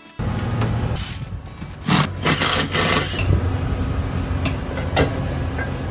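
An engine running steadily with a rapid mechanical rattle, starting abruptly just after the start, with several sharp knocks in the first few seconds.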